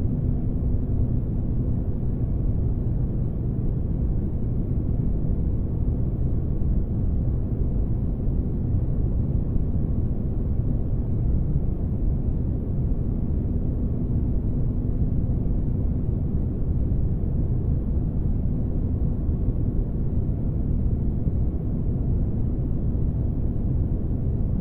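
Spaceship ambience noise: a steady deep rumble with a faint humming tone in it, dull and muffled with no hiss on top, unchanging throughout.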